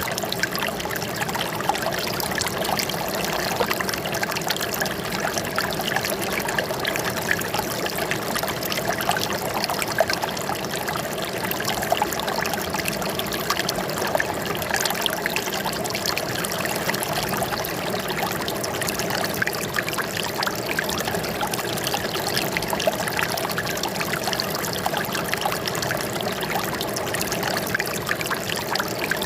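Running water trickling and splashing steadily, with many small droplet-like splashes over a constant rush.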